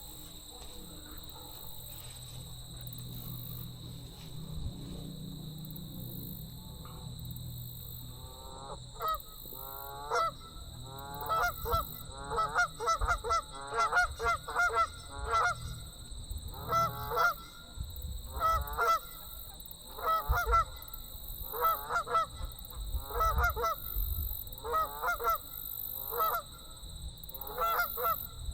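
A flock of geese honking, starting about a third of the way in: a rapid run of overlapping honks, then repeated groups of two or three honks every second or two. The geese are calling as a person approaches them.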